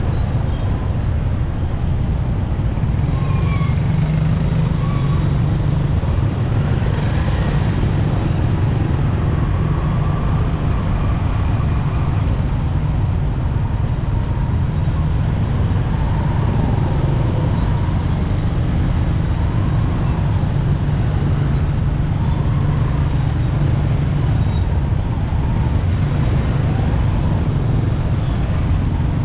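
Road noise recorded from a moving motorcycle in traffic: a steady low rumble of engine and wind, with other vehicles on the road around it.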